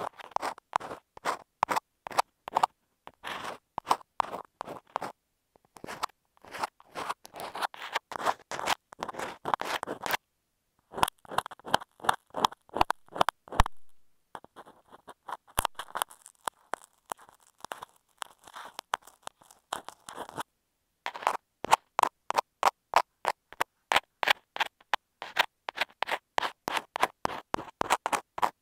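Ear pick scratching and scraping on an earphone microphone in quick strokes, several a second, with short pauses between runs.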